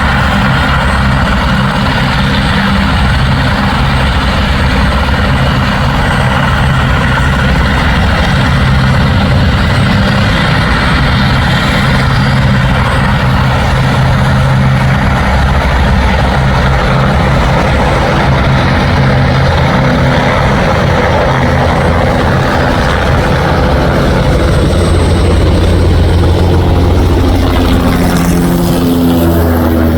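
Helicopter rotor and turbine engine running loudly and steadily, with a shift in pitch near the end.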